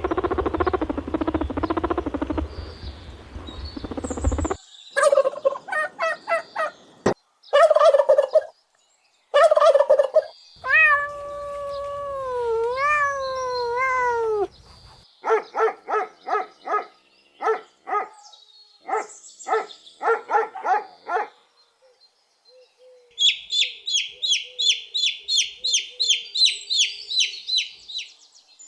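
Domestic fowl calling in several separate bouts: rapid runs of short calls, one long call that slides down and back up in pitch, and quick high chirps near the end.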